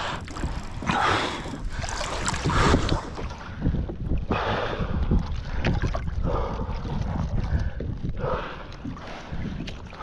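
Water splashing and sloshing in uneven surges as a person swims in open water towing a kayak, with wind rumbling on the microphone.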